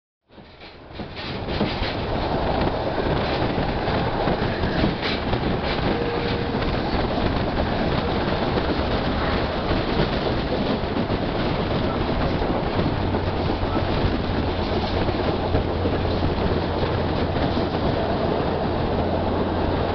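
EFVM passenger train running along the track, heard from aboard at an open window: a steady running noise of wheels on rails. It fades up over the first second or two.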